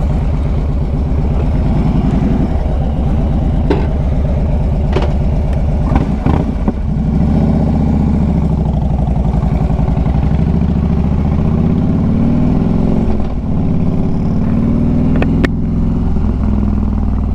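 2013 Harley-Davidson Street Glide's Twin Cam 103 V-twin running through Vance & Hines True Dual exhaust as the bike is ridden, with the engine note dipping briefly about six seconds in and changing again around thirteen seconds. A few short clicks sound over it.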